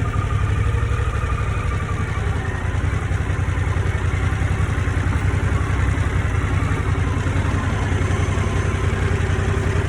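Harley-Davidson motorcycle's V-twin engine idling steadily at rest, a low, even pulsing.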